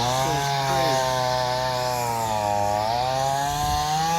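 Chainsaw running at high revs, its pitch sagging a little mid-way as it bites into wood and climbing again near the end: storm-debris cleanup.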